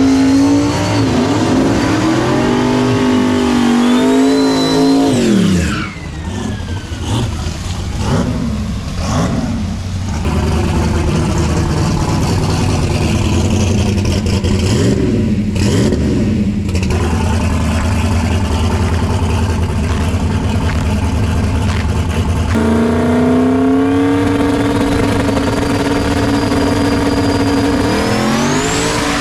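Drag-racing engines at high revs. About five seconds in, one engine's pitch drops steeply as it goes by. Near the end another engine's pitch climbs sharply as it accelerates hard.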